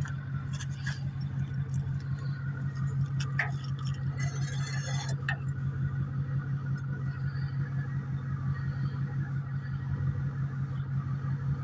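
Truck engine idling steadily with an even low pulse, with a few light clicks and a brief hiss about four seconds in.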